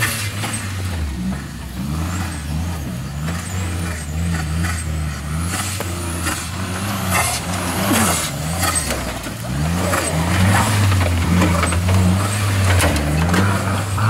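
Small kei-class 4x4's engine revving up and down again and again under load as it crawls over steep dirt mounds, getting louder about ten seconds in.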